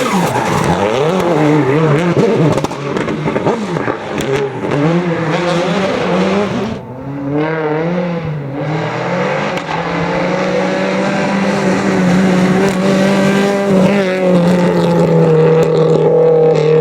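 Rally car engine on a stage, its revs rising and falling sharply through the first half, then held high and nearly steady for the rest.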